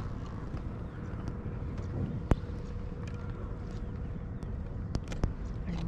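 Open-air ambience with a steady low rumble and a faint steady hum, broken by a few small clicks and one sharp click a little over two seconds in.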